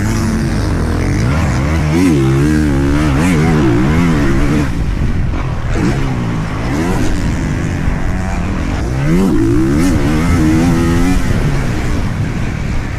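Motocross dirt bike engine being ridden hard, its revs climbing and dropping again and again through the gears, with several surges between about two and eleven seconds in.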